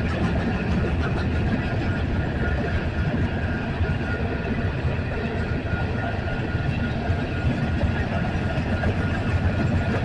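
Union Pacific freight train rolling past, a steady rumble of wheels on rails with a thin, steady high-pitched tone over it.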